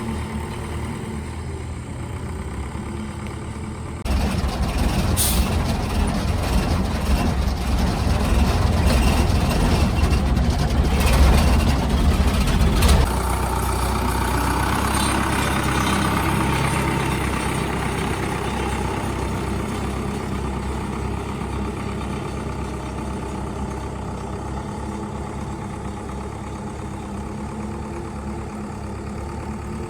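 Restored old truck's engine running: it jumps louder about four seconds in, stays loud until about thirteen seconds, then settles to a steady run that slowly fades.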